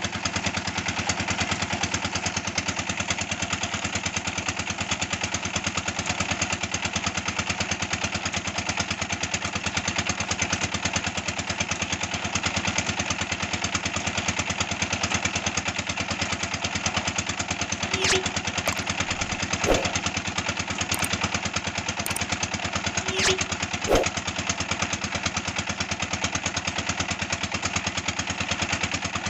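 Red-brick moulding machine running steadily with a fast engine-like pulse, and a few sharp knocks about two-thirds of the way through.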